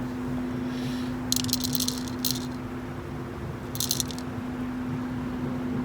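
Roasted coffee beans rattling in a container, in two bursts: a longer one about a second in and a short one near the middle. A steady low hum runs underneath.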